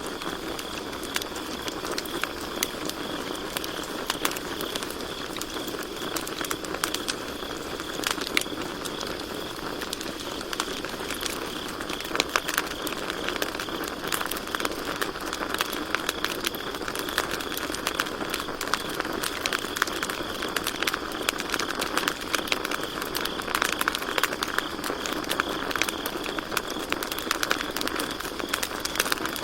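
Campfire crackling with many sharp pops and snaps, over a steady high chirring of crickets.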